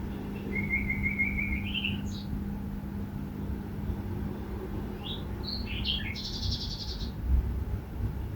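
Songbirds calling: a quick trill that rises at its end, then a few sharp chirps and a harsh, buzzy rattle near the end, over a low steady rumble and hum.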